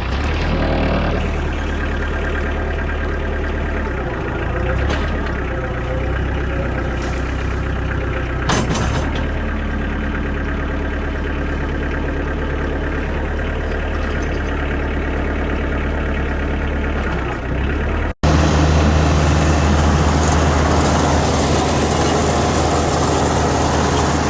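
Kioti DK40 tractor's diesel engine running steadily. It breaks off for an instant about 18 seconds in and comes back louder.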